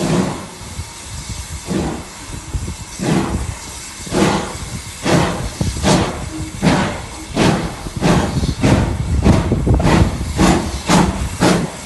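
Steam locomotive exhaust chuffing as it pulls away, the beats slow at first and quickening steadily to about two or three a second as the engine gathers speed, with steam hissing between them.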